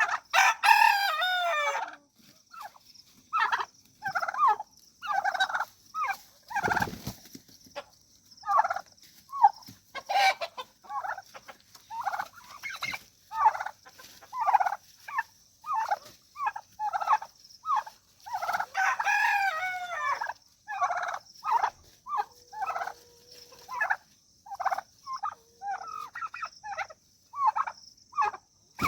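Domestic rooster crowing and turkey gobbling, with a steady run of short clucking calls between. There are two longer calls, one near the start and one about two-thirds of the way through.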